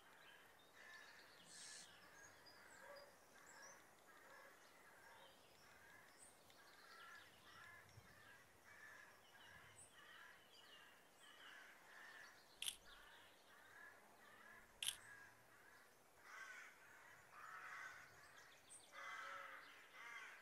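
Faint outdoor birdsong: short chirping bird calls repeating throughout. Two sharp clicks stand out about two-thirds of the way through.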